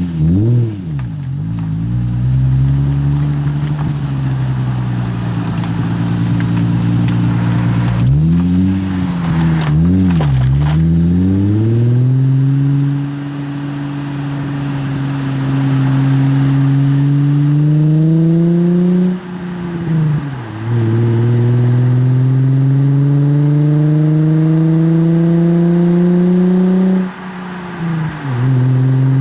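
Nissan 350Z's 3.5-litre V6 running through a Greddy Ti-C titanium single exhaust. It gives a quick throttle blip at the start and a few more around ten seconds in, then pulls hard with the pitch climbing steadily, broken by two upshifts in the second half.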